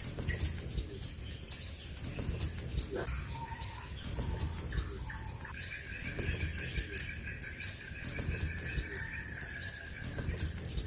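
Crimson sunbird calling: short, high-pitched chirps repeated evenly, two or three a second. From about three seconds in, steady held tones run under the chirps and stop shortly before the end.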